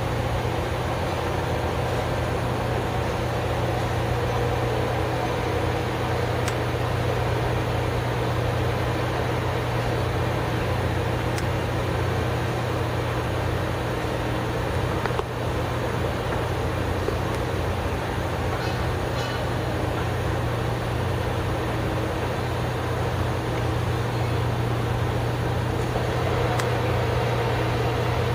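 A large engine running steadily at constant speed, an even low hum with no revving or change in pitch.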